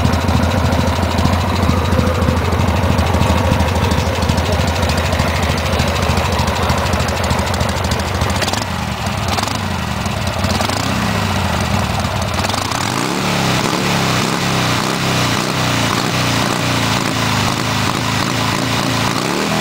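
An engine running steadily with a strong low hum. About two-thirds of the way through its note changes and rises, and it rises again near the end.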